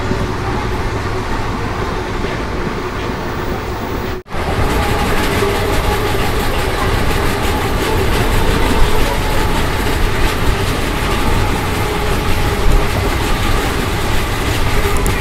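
Running noise of a moving Indian Railways express train's sleeper coach, the wheels rolling on the track with a steady hum. About four seconds in, the sound breaks off for an instant and comes back louder.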